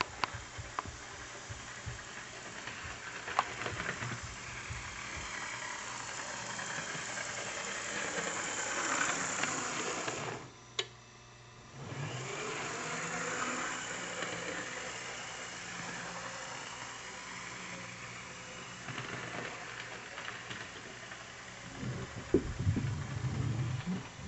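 Tyco model train locomotive running on its track: a steady whirring motor-and-gear sound with scattered clicks. It swells to its loudest about ten seconds in, drops away abruptly for about a second and a half, then resumes, with a lower rumble and more clicks near the end.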